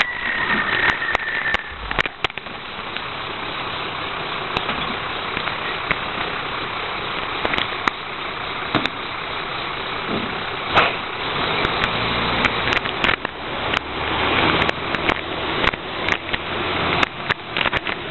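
Heil 5000 rear-loader recycling truck running, with a brief high squeal at the start, a steady mechanical rush, and then many sharp clanks and clatters over a low engine hum in the second half.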